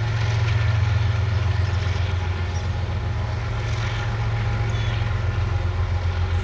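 Union Pacific freight train's diesel locomotives working uphill: a loud, steady low engine drone.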